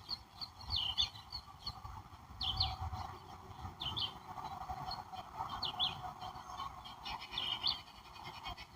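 A songbird repeating a short, high chirping phrase about every one and a half seconds, over a steady background chorus of distant birds or insects.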